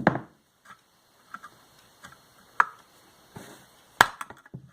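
A screwdriver being tapped under the plastic edge of an Ametek vacuum motor housing to work it loose. There are three sharp knocks, at the start, about halfway through and near the end, with fainter taps between them.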